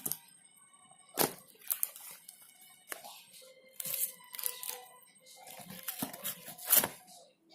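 Phone packaging being torn open and handled: a series of sharp tearing and crinkling rustles, the loudest near the end.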